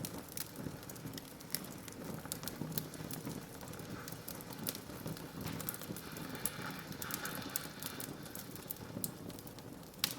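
Wood fire burning in a fireplace, crackling steadily with frequent sharp pops over a low, even rumble of flames.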